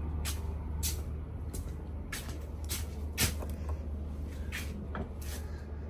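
Footsteps, a short sharp step every half second or so, over a steady low mechanical hum.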